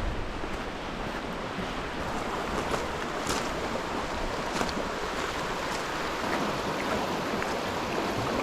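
Steady rushing of a waterfall and its river running high after heavy rainfall, an even roar of water.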